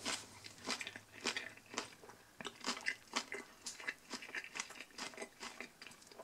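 A person chewing a mouthful of Subway Spicy Italian sub (white Italian bread, salami, shredded lettuce), with crunchy chews coming irregularly about two to three times a second.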